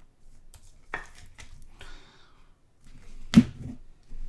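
Trading cards being handled and sorted: a few sharp snaps and taps, with a brief rustle of cards sliding, the loudest snap about three and a half seconds in.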